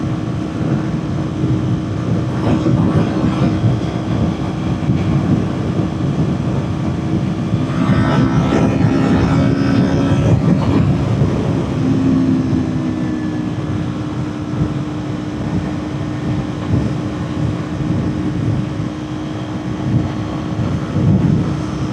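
Kawasaki Ninja 400 parallel-twin engine running at high, steady revs at speed, under heavy wind noise buffeting the microphone. About eight seconds in, a louder, brighter rush passes for a few seconds.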